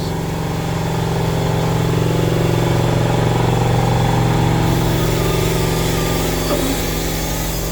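A motor running steadily, a constant low drone that neither rises nor falls.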